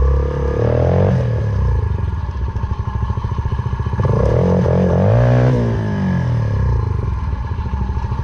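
Single-cylinder four-stroke motorcycle engine revving up and down as the throttle is opened and closed, rising in pitch about a second in and again about four seconds in before falling back.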